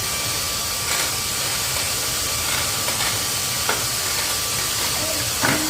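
Vacuum cleaner motor running steadily, a loud airy rush with a faint high whine, with a few light knocks from handling.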